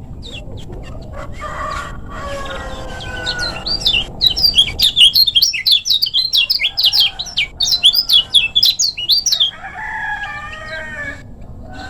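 Kecial kuning (lemon-bellied white-eye) singing a fast, loud run of sharp, rapid chirps for about six seconds in the middle. Lower, slower calls come before and after it.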